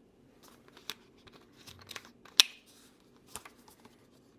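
Plastic broth container and microwave steamer being handled: light rustles and scattered clicks, with one sharp click a little past halfway.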